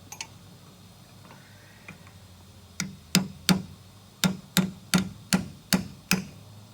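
Hammer blows on the metal of a hydraulic cylinder gland being knocked loose during a rebuild: about nine sharp strikes at roughly three a second, starting about three seconds in.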